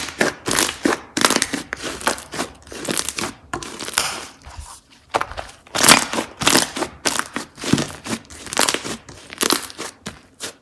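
Slime being squished, pressed and stretched by hand, giving a run of irregular short crackling noises, a few each second.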